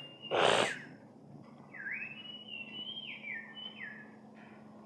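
A short noisy burst, then a few whistled notes that glide up and step up and down in pitch for about two seconds, over a faint steady hum.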